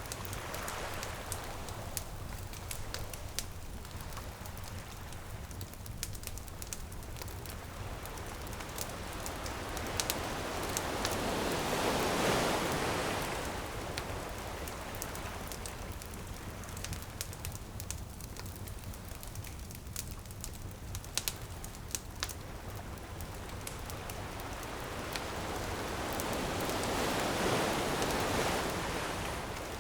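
Campfire crackling with frequent sharp pops over a steady hiss, while ocean waves swell and wash in twice, peaking about a third of the way in and again near the end.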